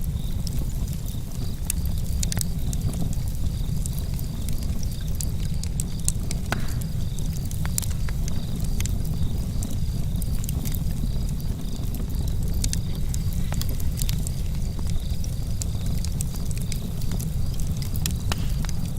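Campfire crackling: irregular sharp pops and snaps of burning wood over a steady low rumble of the fire.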